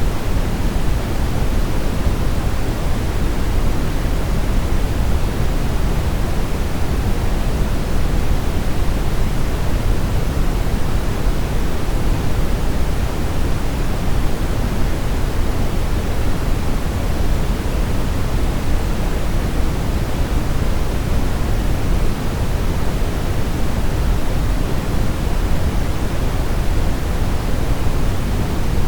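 Steady brown noise: a continuous, even hiss-rumble weighted toward the low end, with no changes or events.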